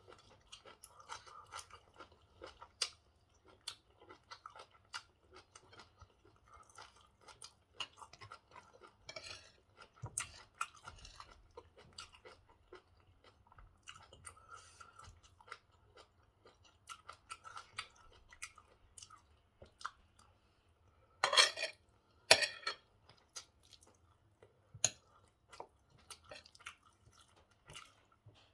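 A person chewing mouthfuls of pork stew and white rice, with wet mouth clicks and smacks scattered throughout. Two louder, sharp noises come close together about two-thirds of the way through.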